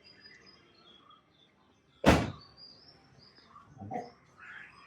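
Small birds chirping faintly in the background, broken by one short, loud, sharp sound about two seconds in and a softer low thud-like sound near the end.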